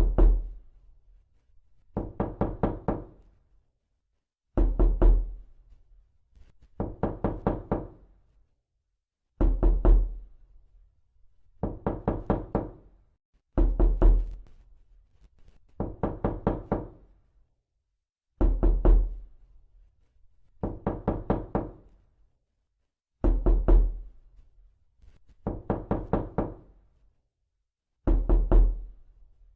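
Knocking in short bursts of several quick knocks, about one burst every two seconds, repeating steadily with silence between bursts.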